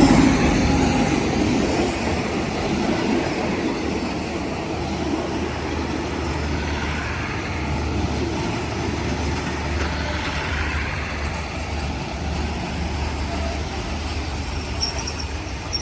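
SRT diesel passenger train beside the platform, a steady rumble of the carriages with a low hum running under it; loudest at the start, then easing slightly and holding steady.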